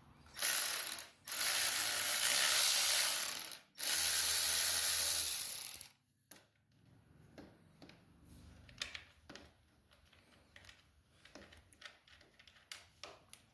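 Ratchet wrench clicking rapidly in three long runs, backing out a dirt bike's gas tank mounting bolt. After that come scattered light clicks and knocks of tools and parts being handled.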